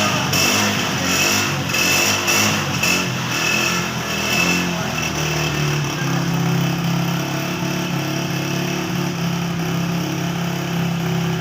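Honda CG 125's single-cylinder four-stroke engine running with uneven revs for the first five seconds or so, then holding a steady note.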